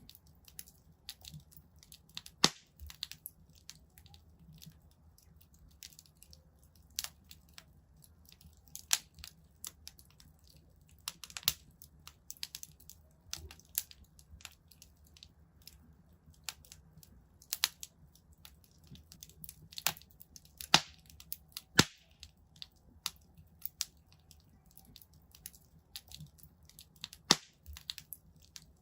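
Wood fire crackling in a fireplace: irregular sharp pops and snaps from burning logs, a few louder pops among many small crackles, over a faint low rumble of the flames.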